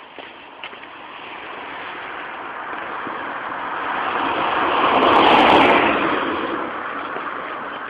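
A road vehicle driving past: a steady rushing sound that grows louder to a peak about five seconds in, then fades away.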